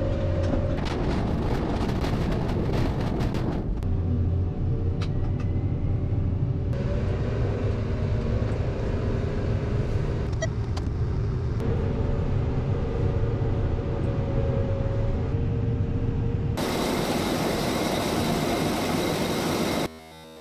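Diesel engine of farm machinery running steadily, heard in a run of short clips that cut abruptly from one to the next, with some clicking and rattling in the first few seconds. Near the end a brighter rushing noise takes over, then the sound drops away as faint music begins.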